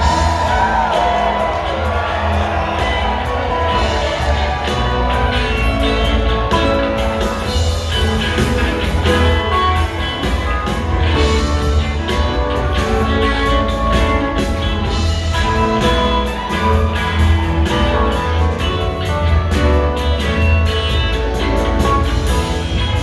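Live rock band playing, with guitars over a steady bass and drums.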